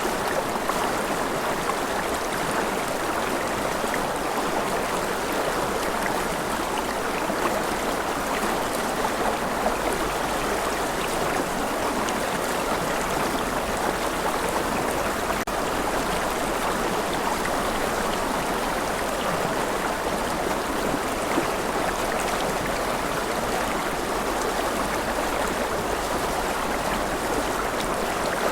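Steady, even wash of water noise, unchanging throughout, with no separate drops or splashes standing out.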